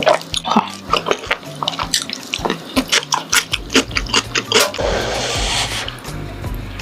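Close-up wet chewing and smacking of grilled beef large intestines, many quick sticky clicks, with a brief hiss about five seconds in.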